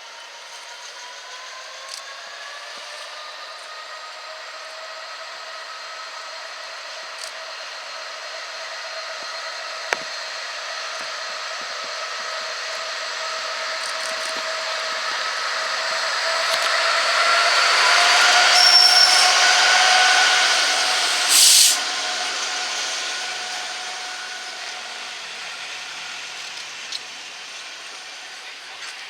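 A locomotive-hauled train approaching and passing: its engine note rises steadily as it draws near, loudest about two-thirds of the way through, then fades. A brief, sharp hiss of air comes just after the loudest point.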